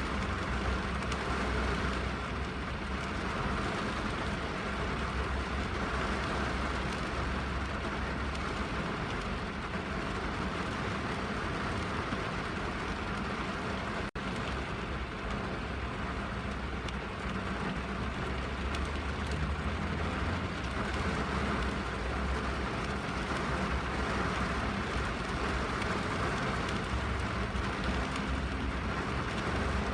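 Steady rain falling on a car's roof and windows, heard from inside the cabin, with a low rumble beneath it. The sound dips out for a split second about halfway through.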